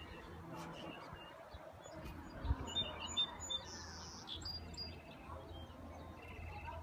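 Songbirds chirping, with a cluster of short, high chirps about two to three seconds in and a soft low bump among them, over a faint steady outdoor background.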